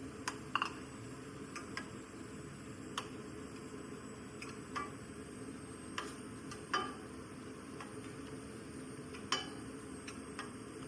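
Light taps and clicks, about ten, spaced irregularly over a steady low background noise.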